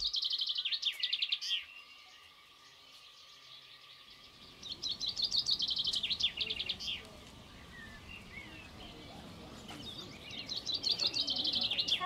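A songbird singing three similar phrases, each a quick run of high repeated notes lasting about two seconds, with softer chirps in between.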